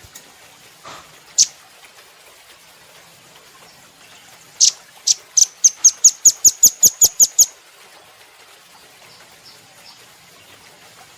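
Nuthatch (rambatan Doraemon) calling: one sharp high note about a second in, then a fast run of about fourteen sharp, loud notes, about five a second, near the middle.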